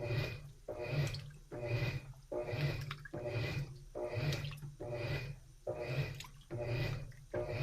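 Washing machine agitating a load in water during its wash cycle: the motor hums and the water swishes with each back-and-forth stroke, a little more than one stroke a second, in an even rhythm.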